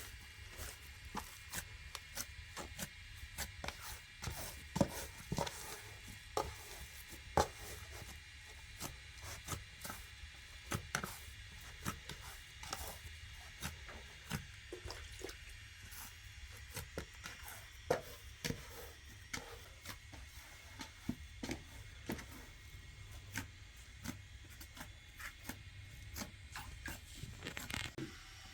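Irregular small knocks and taps, several a second with a few sharper ones, over a steady low rumble.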